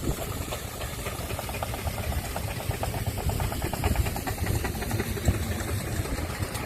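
Burrell scenic showman's steam engine running steadily, with a fast, even clicking beat through the middle.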